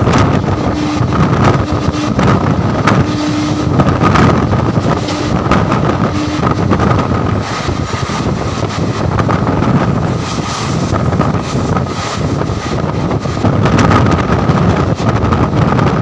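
Passenger train running at speed, heard from its open door: a steady rumble of wheels on rails with wind buffeting the microphone. A thin steady whine sits over it, and a broken lower tone comes and goes during the first six seconds.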